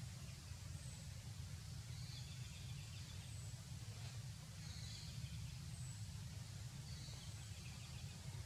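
Steady low outdoor rumble, with faint, high, short bird chirps every second or two.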